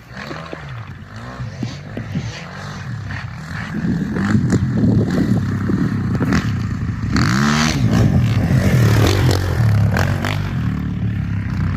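Small dirt-bike engine revving up and down over and over, much louder from about four seconds in.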